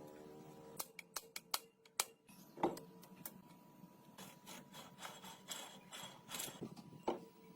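Hand tools working on parts, faintly: irregular clicks, taps and rubbing, with two louder knocks that ring briefly, one about a third of the way in and one near the end.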